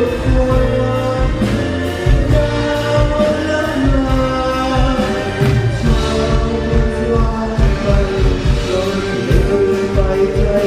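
A live band plays a slow pop song with drums keeping a steady beat while a male singer sings the melody.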